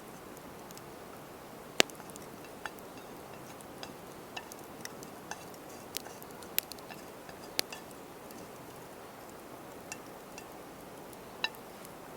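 Scattered sharp clicks and ticks at irregular intervals over a steady low hiss, a few of them with a brief ringing edge.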